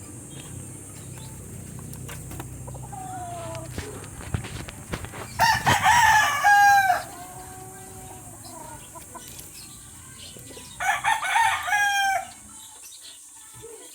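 Rooster crowing twice, each crow about one and a half seconds long with a falling end, with a few faint short calls before the first.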